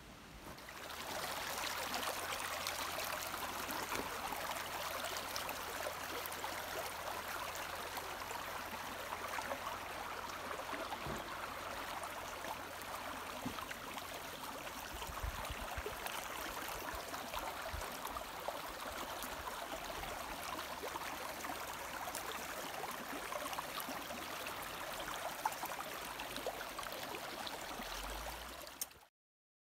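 Stream water flowing: a steady rushing and trickling that starts about a second in and cuts off abruptly near the end.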